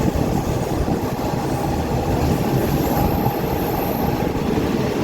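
Passenger train running along the track: a steady rumble and rattle of the carriages on the rails, with a faint high squeal about halfway through.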